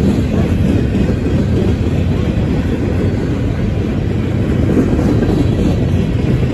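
Freight cars of a mixed manifest train rolling past: a steady, loud rumble of steel wheels on the rails.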